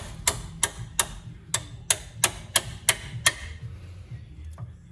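Hammer tapping a pipe used as a drift to seat a new gearbox drive-shaft oil seal: about ten light, evenly spaced metal strikes, roughly three a second, that stop a little past three seconds in.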